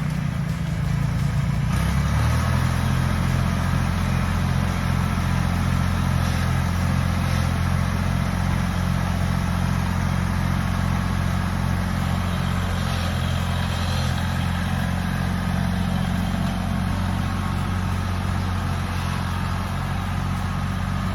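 Vehicle engine running steadily, dropping to a lower, even speed about two seconds in and holding there.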